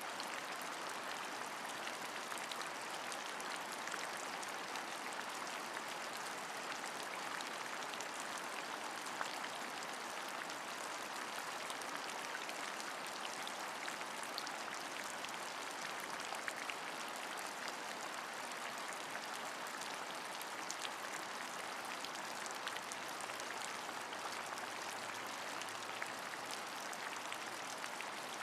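Steady rain, an even hiss of falling water with small individual drop ticks scattered through it. A faint low hum comes in near the end.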